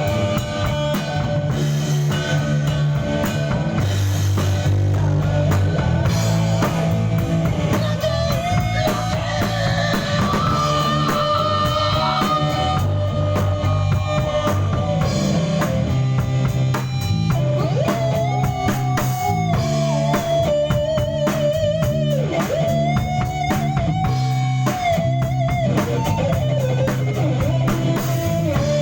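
A rock band playing live in a studio: drum kit, bass and guitar, with a lead line of long notes that bend in pitch.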